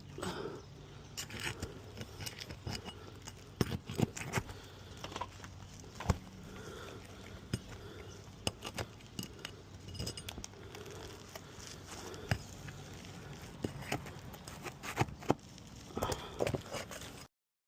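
Scattered, irregular clicks, taps and scrapes of hand work on a shingle roof as the fasteners are pulled out of the shingles.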